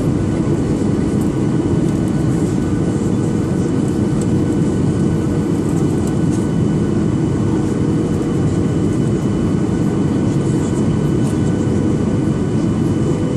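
Steady cabin noise of a Boeing 737-800 in flight: the CFM56 engines and the airflow over the fuselage make an even, low roar with a faint steady hum.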